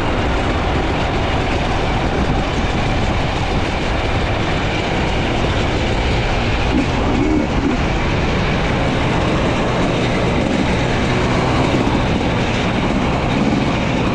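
Two-stroke enduro dirt bike running along a trail at steady throttle, its engine mixed with a continuous rattle and rush of noise from riding over rough ground.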